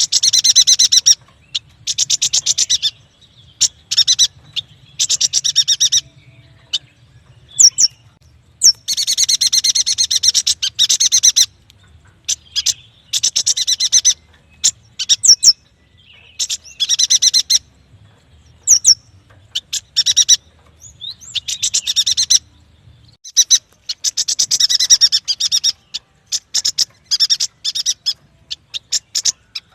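Yuhina singing in repeated bursts of fast chattering trills, each lasting a second or two with short pauses between, broken now and then by single sharp high whistled notes.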